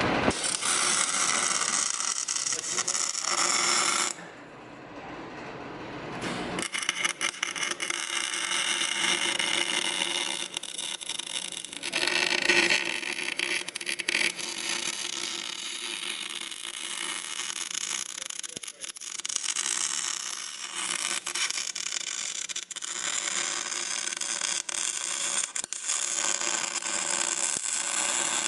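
Electric arc welder welding a car's differential gears solid to lock the diff: a steady crackling hiss full of sharp pops. It stops about four seconds in and starts again a couple of seconds later.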